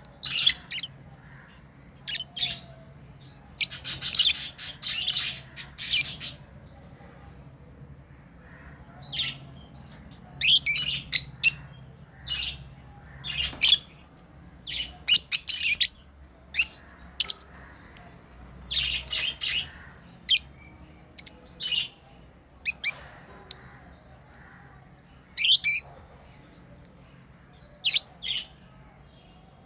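Pet lovebirds chirping: short, high-pitched calls in irregular bursts, with a longer run of rapid chatter about four seconds in.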